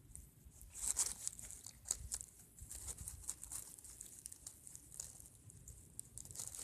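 Camera handling noise while the camera is set down: irregular rustling, scraping and sharp crackling clicks, a bit louder about a second in.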